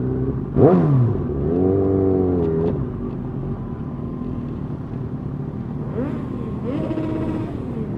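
Motorcycle engines running at parade pace and being blipped: a sharp rev about half a second in whose pitch drops quickly, a rev that rises and falls about two seconds in, and another rev climbing near six seconds, over a steady low rumble.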